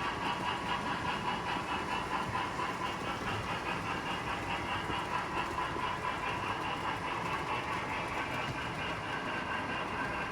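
Model train running on its track, a steady hum with a regular rhythmic clicking several times a second.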